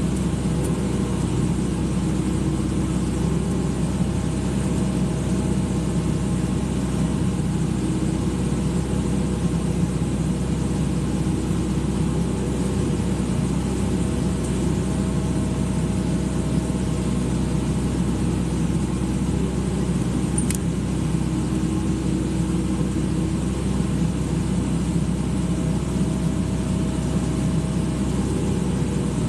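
Excavator's diesel engine running steadily, an even drone with no change in speed.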